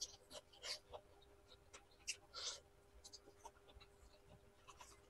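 Faint eating sounds close to the microphone: scattered small mouth clicks and a few short wet smacks while a mouthful of rice and curry is chewed, over a faint steady hum.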